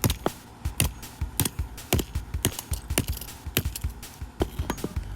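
A hammer striking a toy push-along train engine again and again, sharp knocks at about two a second in an uneven rhythm.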